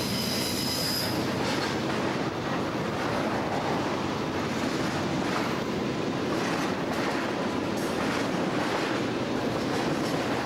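Freight train cars (double-stack container cars, tank cars, boxcars) rolling past, a steady rumble of wheels on rail. A brief high-pitched wheel squeal comes in the first second.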